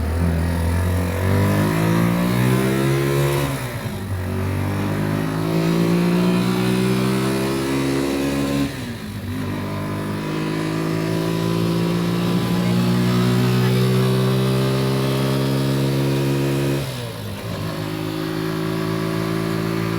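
Motor vehicle engine accelerating and shifting up through the gears: its pitch climbs steadily, then drops sharply at each of three shifts, about 4, 9 and 17 seconds in.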